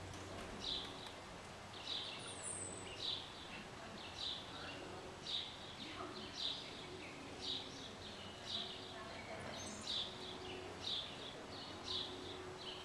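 A small bird chirping over and over, a short high chirp about twice a second at a steady pace, with one quick falling high call a couple of seconds in.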